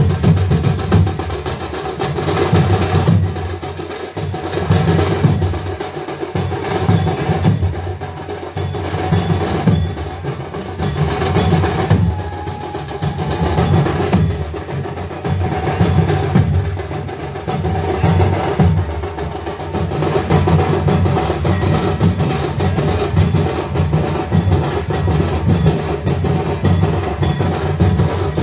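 Loud percussion music: drums under a fast, steady beat of sharp strikes.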